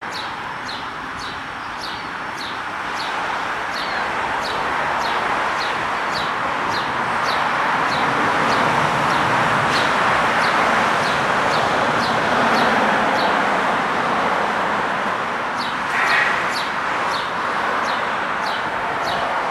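A bird chirping over and over, about two short, high, falling chirps a second, pausing briefly and starting again, over a steady rushing background.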